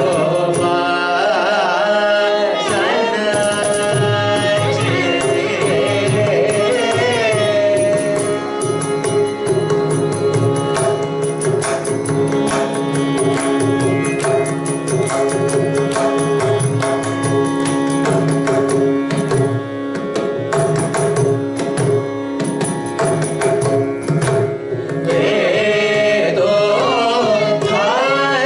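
Carnatic music: a voice sings ornamented, gliding phrases over a steady drone, then gives way to a long passage of fast mridangam strokes over the drone, and the singing comes back near the end.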